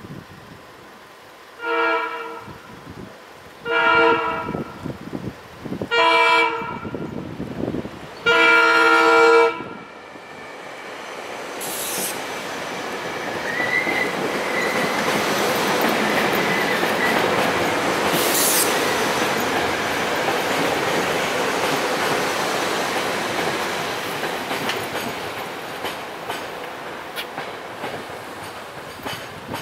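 A SEPTA Silverliner IV electric train sounds its horn in four blasts, the last the longest, then runs through the grade crossing. Its wheel and rail noise builds, peaks and fades, with a high wheel squeal for a few seconds and two sharp clicks. The crossing's Safetran mechanical bell rings underneath.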